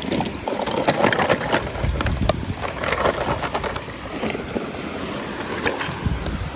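Toy packaging being opened by hand: plastic crinkling and rustling, with irregular sharp clicks and taps.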